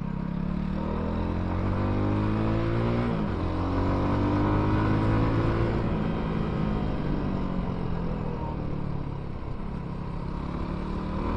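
Benelli Leoncino 250's single-cylinder engine accelerating out of a bend, its pitch rising, then dropping abruptly about three seconds in as it shifts up a gear. The revs rise again, then sink slowly as the throttle is eased.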